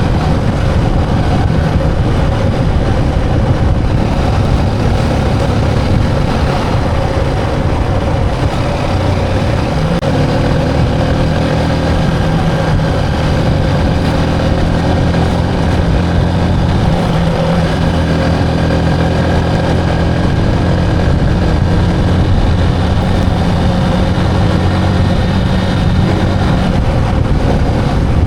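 Motorcycle engine running steadily while riding, mixed with wind and road noise; about ten seconds in, a steadier low engine hum settles in.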